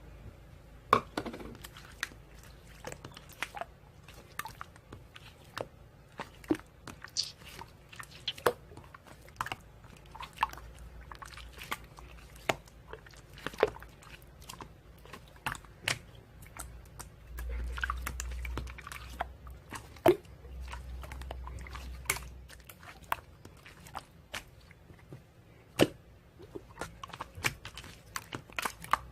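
Close-up eating sounds: chewing and biting with many irregular crisp clicks, and a low rumble for a few seconds past the middle.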